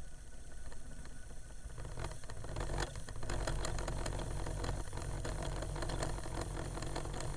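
A 1980s-era Discman portable CD player's motor whirring and rattling with rapid clicks as it tries and fails to spin the disc up to speed, lacking the power to get there. The whirring and clicking thicken and get louder about two seconds in.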